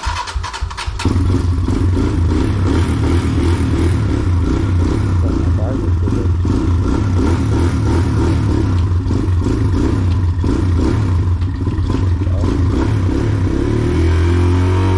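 Dirt bike engine running, getting louder about a second in and then holding steady.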